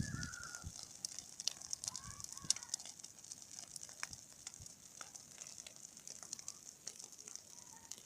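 Bonfire and burning dry grass crackling, with frequent irregular sharp pops over a steady hiss.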